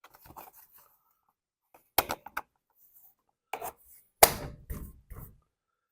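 Irregular knocks and clicks of parts being handled and set down on a work surface, the loudest about four seconds in.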